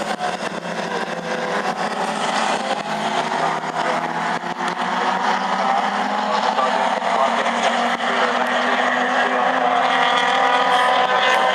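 A field of Ford Falcon AU and Holden Commodore VT saloon race cars at racing speed. Several engines are running hard together, growing gradually louder toward the end.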